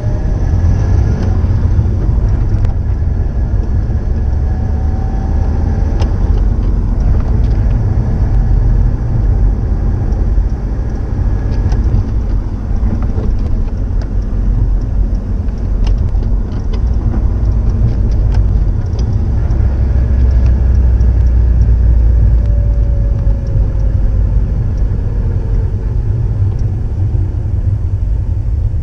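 Subaru Impreza WRX STI (GDB) turbocharged EJ20 flat-four engine running through its STI Genome muffler: a deep, steady exhaust rumble whose pitch rises and falls a few times, swelling louder about two-thirds of the way through.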